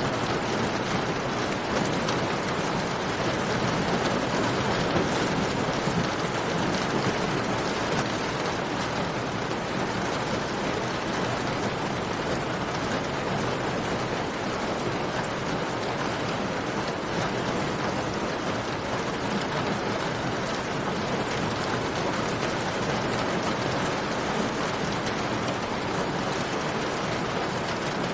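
Steady rain heard from a cave, mixed with the crackle of a campfire, in an even wash of noise without a break.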